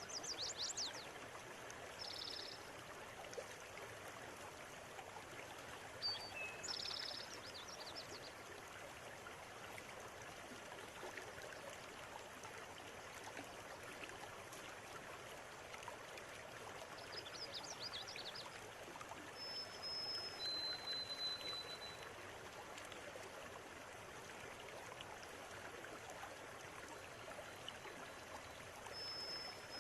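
River water flowing steadily, with small birds calling now and then over it: a few short high chirps and trills, and two or three thin whistled notes held briefly.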